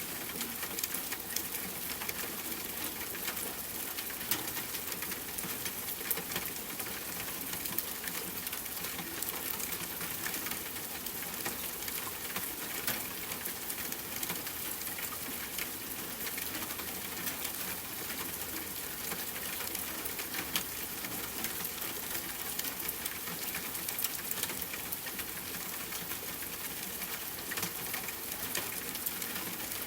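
Steady rain with a constant hiss and many small drop ticks.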